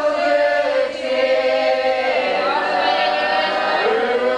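Voices chanting in long, drawn-out notes that slide between pitches, a mock church funeral chant sung over the 'dead' girl.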